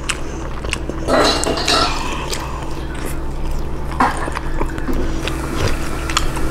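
Close-miked eating of a McDonald's french fry: short bites and chewing mouth noises, loudest about a second in and again around four seconds, over a steady low hum.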